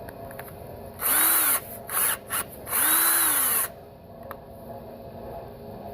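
Power drill run in short trigger pulls. The motor winds up and back down on two longer runs, one about half a second and one about a second long, with two quick blips between them.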